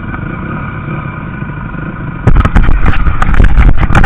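Motocross bike engines running out on the track with a steady drone. A bit past halfway a much louder, rough rumble cuts in suddenly.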